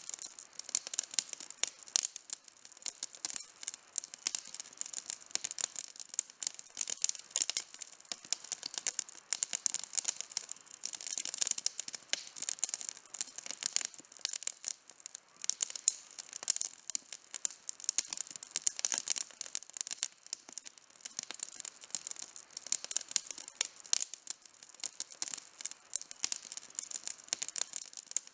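Wood campfire burning, with dense, irregular crackling and sharp pops.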